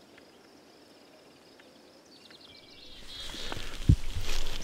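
Quiet outdoor ambience with faint, high, short bird chirps. About three seconds in, a rustling noise swells up, and a single sharp knock comes near the end.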